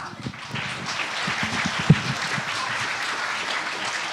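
Audience applauding, a steady round of many people clapping.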